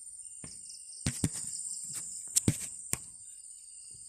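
Insects trilling steadily at a high pitch, with a handful of sharp knocks and rustles between about one and three seconds in, the loudest near the middle.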